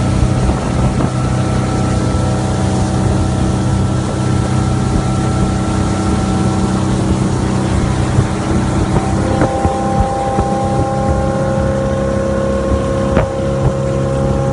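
GM 5.7-litre small-block V8 marine engine of a 1988 Bayliner Ciera running steadily, its note shifting a little higher about nine seconds in.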